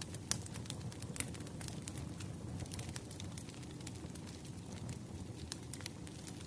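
Wood fire crackling: a steady low rumble of burning logs with frequent sharp pops and snaps.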